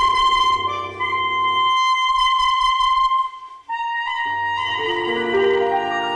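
Music: a woodwind instrument plays long held melody notes over a lower accompaniment. The accompaniment drops out for about two seconds in the middle, and the melody breaks off briefly just after three seconds before going on with a new held note.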